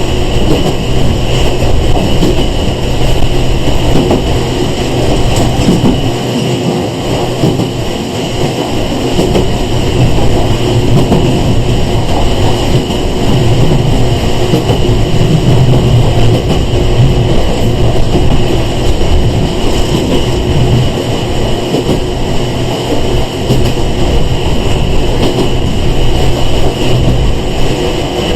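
Steady in-car running noise of a Sangi Railway 101 series (ex-Seibu 401 series) electric train under way: a continuous rumble of wheels on the rails with a steady motor hum.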